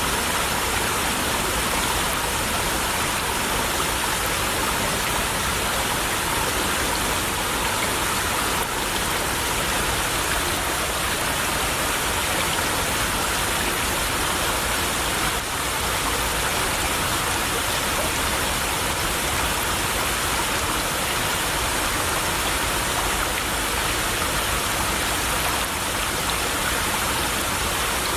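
Small stream babbling steadily: an even, unbroken rush of running water.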